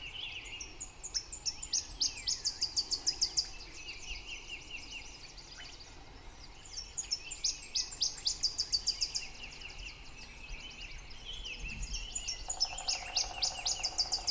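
Songbirds singing in the open, one repeating a phrase of about a dozen quick high notes three times, with softer trills from other birds between. A steady lower tone comes in near the end.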